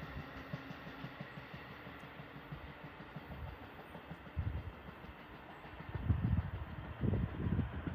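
Amtrak electric train running away down the line, its rumble slowly fading. Wind gusts on the microphone from about halfway through.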